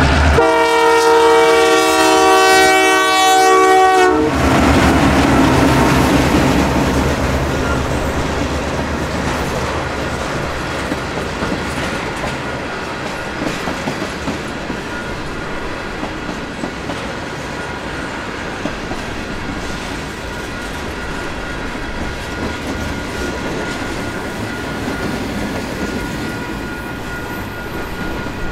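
A diesel locomotive's air horn sounds one long chord of about four seconds. It is followed by the steady rumble of a freight train rolling past, slowly fading, with wheels clicking over rail joints.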